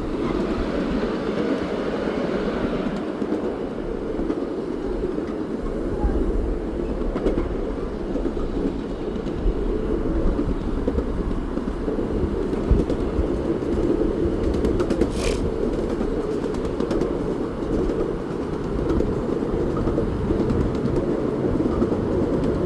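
Steam train running along the track: a steady rumble, with one brief sharp high sound about fifteen seconds in.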